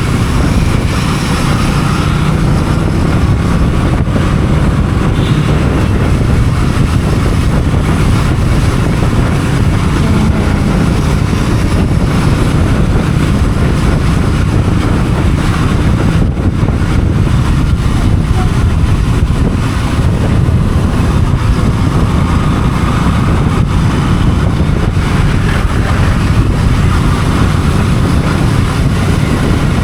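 Steady rumble of a motorcycle ride, with engine noise and wind buffeting the microphone.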